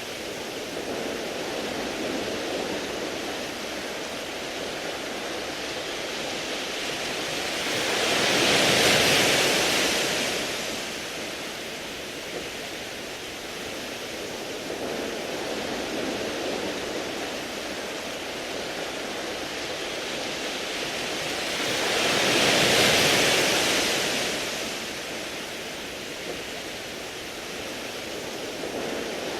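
Sea waves washing over a beach of smooth round pebbles: a steady wash of surf, with two larger waves about fourteen seconds apart that swell up and fade away.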